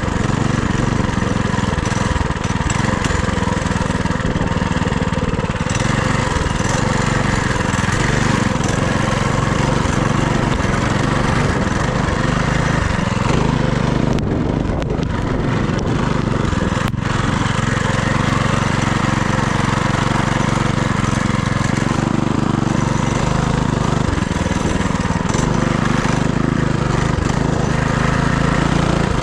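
FRP GMB100 mini bike's small engine running steadily while being ridden, with a sharp click a little past halfway.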